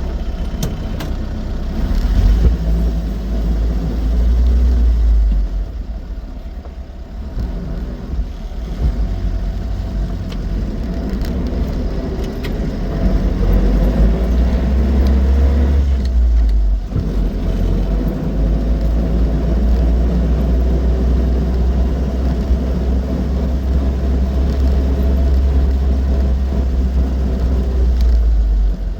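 An Austin 7's small four-cylinder side-valve engine pulling the car along the road, with a low rumble. Its pitch climbs as it speeds up, and the sound drops away briefly twice, as if the revs fall at gear changes, before it pulls steadily again.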